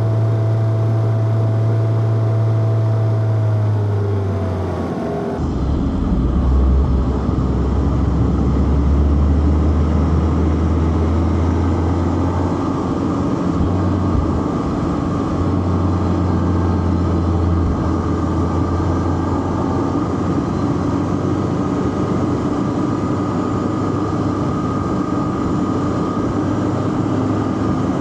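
Four-cylinder car engine running under way with road noise. About four seconds in, its pitch falls as the revs drop, and it then settles to a lower engine note that rises and falls slightly.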